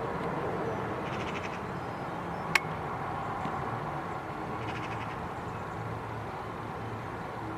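Two short bursts of rapid, chattering bird calls over a low, steady background hum, with one sharp click about two and a half seconds in.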